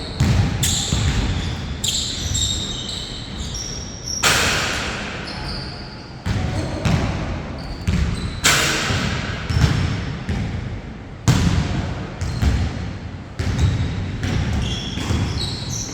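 Basketball bouncing and thudding on a court during a 4-on-4 game, with scattered knocks and short high squeaks, and two louder crashing hits about four and eight seconds in.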